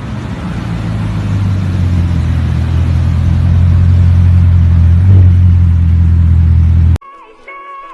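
Sports car engine running with a deep, steady rumble that grows louder over the first few seconds. It cuts off abruptly near the end.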